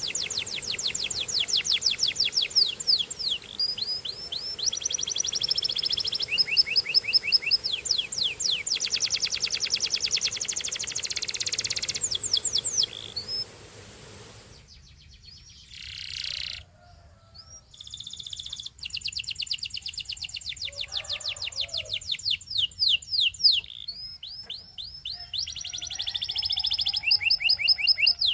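Canary singing in fast trills of quickly repeated sweeping notes. The song breaks off for about three seconds halfway through and then resumes.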